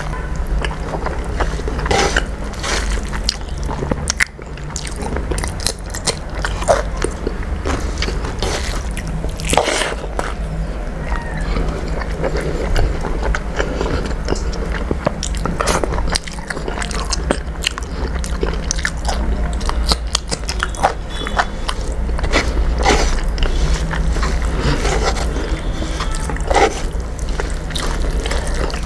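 Close-miked chewing of a mouthful of rice and curry, with wet smacks and clicks coming every second or so, along with fingers squishing rice on the plate. A steady low hum runs underneath.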